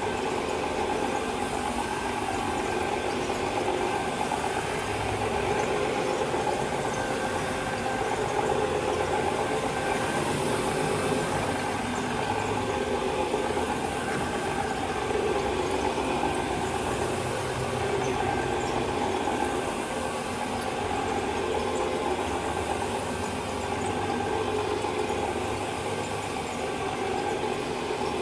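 Carpet-cleaning machine running steadily on carpet, swelling and easing every couple of seconds, with the hiss of a pressure washer running in the background.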